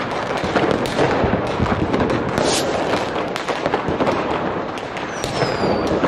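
Fireworks crackling and popping densely, with a short falling whistle about five seconds in.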